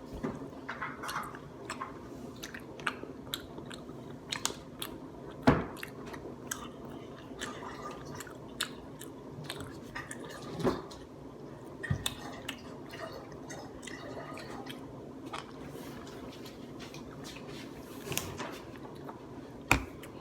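A person eating close to the microphone: chewing and biting with irregular wet smacks and crunches, the loudest about five and a half seconds and eleven seconds in.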